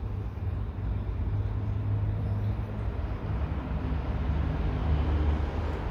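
Chrysler 300C engine idling steadily, freshly filled with new oil after an oil change.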